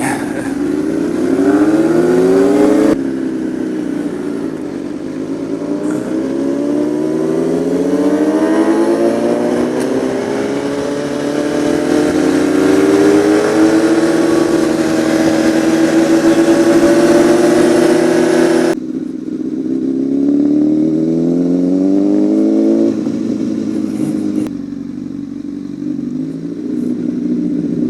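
Sport bike engine pulling through the gears, its revs climbing again and again, then holding steady with wind rush. About two-thirds of the way in the wind rush drops away and the revs fall to a low, steady run.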